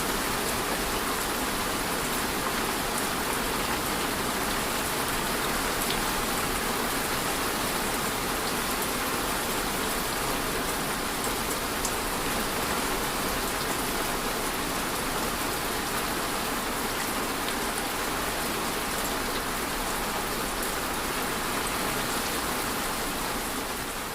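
Steady rain falling, a dense even hiss with scattered sharp drop ticks, starting to fade out near the end.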